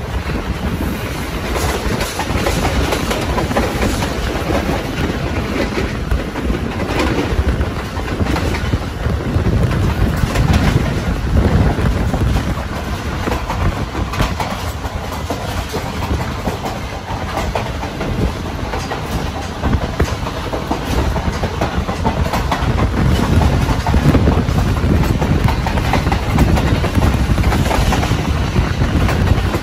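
Passenger train running along the track: a steady rushing noise with the wheels clacking irregularly over the rail joints.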